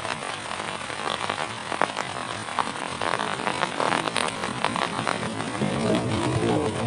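Heavy rain falling steadily, with many sharp drop impacts pattering close by.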